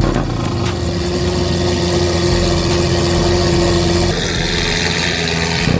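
A car engine idling, with a steady hum over a low rumble; the hum stops about four seconds in.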